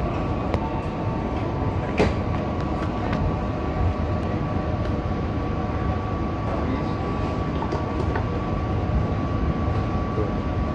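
Passenger train running, heard from inside a carriage: a steady rumble with a thin, steady high whine and a few sharp clicks from the wheels and rails, the loudest about two seconds in.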